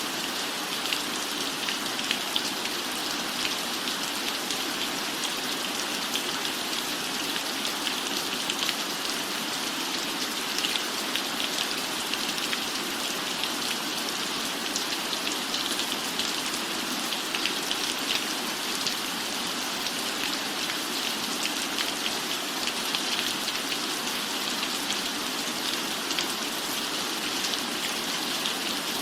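Steady rain falling, an even hiss dotted with the patter of many small drops.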